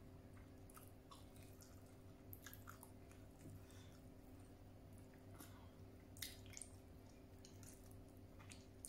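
Faint close-up chewing of rice and grilled fish, with scattered small wet mouth clicks and smacks, the loudest a little after six seconds in, over a low steady hum of room tone.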